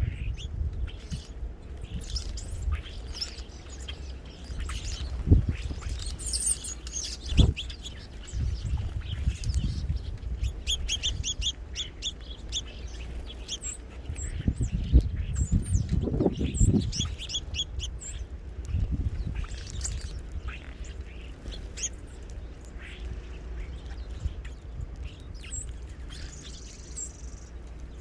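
Small songbirds chirping and calling at a bird feeder: many short high chirps, with a quick run of repeated notes partway through. A steady low rumble runs underneath, and a few short knocks stand out.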